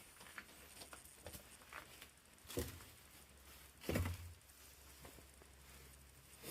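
Footsteps and handling noises: scattered faint clicks, with two louder thumps about two and a half and four seconds in.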